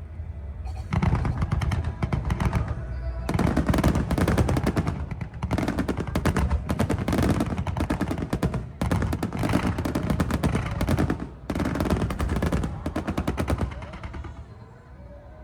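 Fireworks barrage going off in rapid fire: dense runs of bangs and crackling, broken by short gaps, that die away near the end.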